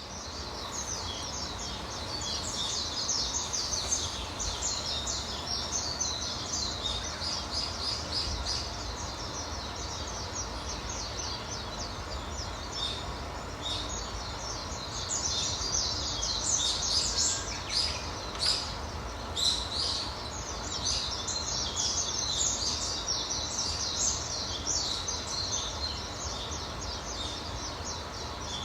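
Many songbirds chirping and singing together in a dense, continuous chorus of short high notes, busiest around the middle, over a low steady rumble.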